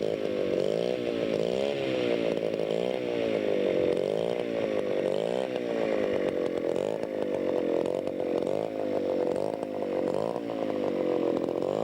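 Model airplane engine running while the aircraft taxis, its pitch swinging up and down about once a second.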